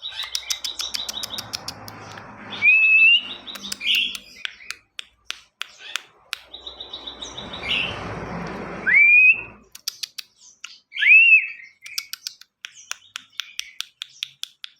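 A ciwah songbird singing busily: rapid ticking notes and buzzy trills broken by loud up-slurred whistles, three of them the loudest sounds. A rushing noise runs under the song twice, for a few seconds each time.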